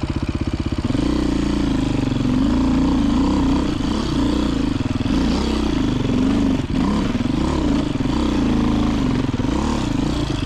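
Beta 500 RRS dirt bike's single-cylinder four-stroke engine running under changing throttle, its pitch rising and falling again and again as the bike is ridden.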